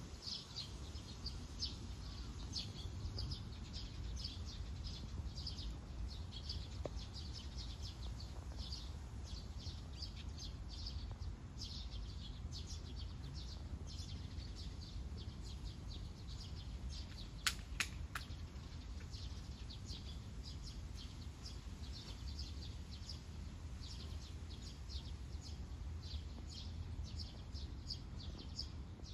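Small birds chirping, a long run of short high chirps repeating over a low steady background rumble. Two sharp clicks about two-thirds of the way through.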